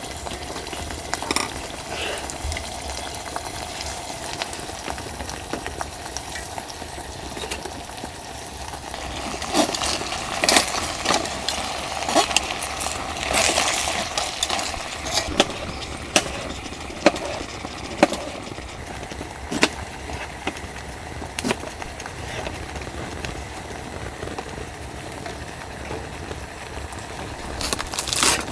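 Food cooking with a steady hiss, while utensils clink and scrape against cookware. The clatter is busiest around the middle and again near the end.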